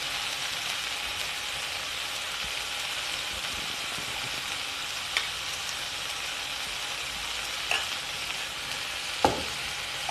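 Onions and tomatoes sizzling steadily in a frying pan, with a metal spoon clinking against a steel bowl three times in the second half.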